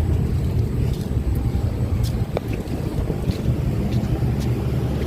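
Package air-conditioning unit running with a steady low rumble, with a few light clicks and taps over it.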